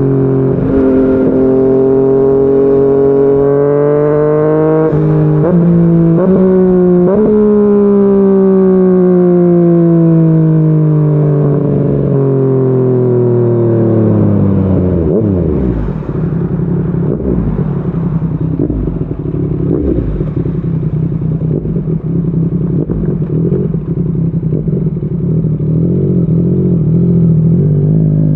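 Yamaha MT-09 three-cylinder engine through a Yoshimura R55 slip-on exhaust. The note rises slowly, jumps sharply three times around five to seven seconds in, then falls steadily as the bike rolls off and slows. About halfway through it settles to a steady idle with an uneven burble.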